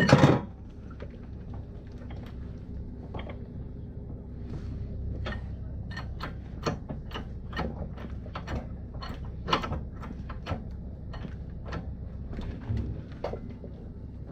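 Tools and parts being handled during ATV wheel-bearing work: one loud knock at the start, then irregular light clicks and taps, over a steady low hum.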